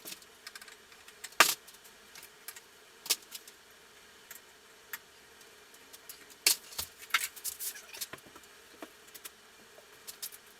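Irregular metallic clicks and clinks of hand tools and small parts being handled while a motorcycle is taken apart, with one sharp clink about a second and a half in and a busier run of clinks a little past halfway.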